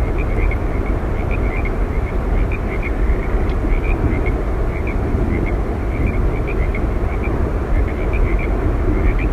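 Steady roar of Yosemite Falls, with short high chirps repeating irregularly over it.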